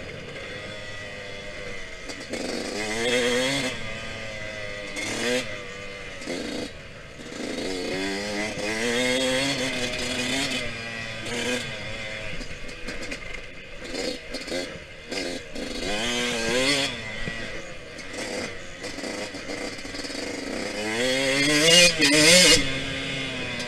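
Yamaha YZ125X 125 cc two-stroke dirt-bike engine under hard riding, revving up through each pull and dropping off again several times, the loudest pull near the end, with scattered knocks and clatter from the ride.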